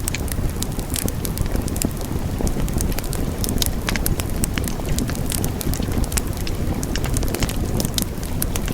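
Wood fire burning in a fireplace: a steady low rumble of flames with many sharp crackles and pops, several a second.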